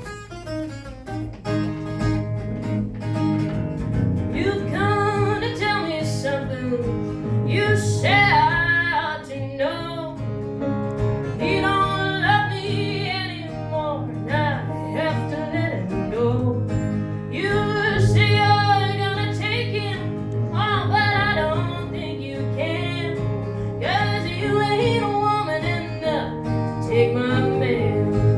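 Live band playing a song: guitar and other plucked strings over a steady low line, with singing coming in about four seconds in and running on through the verse.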